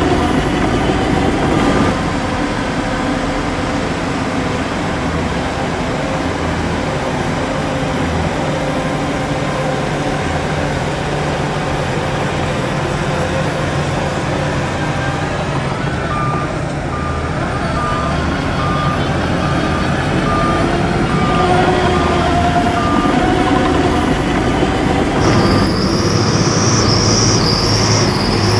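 Heavy diesel earthmoving machinery (a bulldozer and dump trucks) running steadily under load. A reversing alarm beeps in the middle stretch, and near the end a high wavering squeal sets in.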